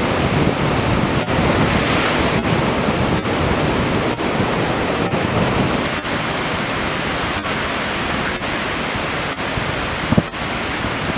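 Surf washing on a beach, mixed with steady wind noise on the microphone.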